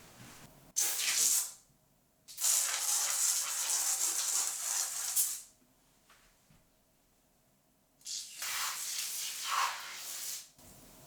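Three bursts of hissing, each cutting in and off sharply: a short one, then one of about three seconds, then one of about two and a half seconds near the end.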